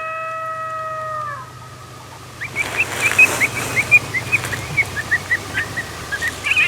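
A long howl that rises, holds one pitch and drops away at about a second and a half. After a short pause comes a fast, irregular string of short high chirping calls, with a low steady hum underneath.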